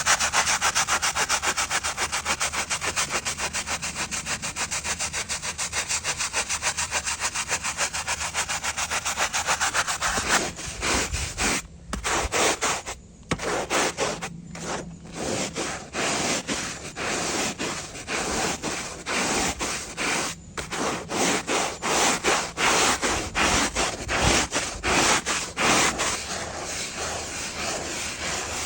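A stiff brush scrubbing rough, mossy tarmac through thick dirty foam, with a gritty rasp on each stroke. The strokes are fast and even for about the first ten seconds, then slower and uneven, with brief pauses.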